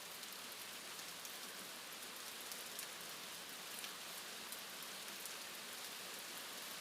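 Steady rainfall, an even hiss with scattered individual drop ticks.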